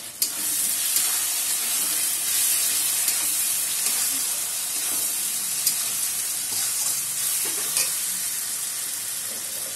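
Onion and spice masala frying in mustard oil in a metal kadai, its sizzle jumping louder about a quarter second in as a metal spatula starts stirring it. A few sharp clicks come from the spatula striking the pan. The sizzle eases off slowly toward the end.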